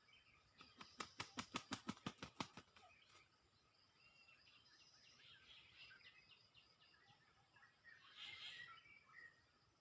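Faint birds chirping and trilling in woodland. About a second in there is a quick run of about a dozen sharp clicks, six or seven a second, lasting under two seconds.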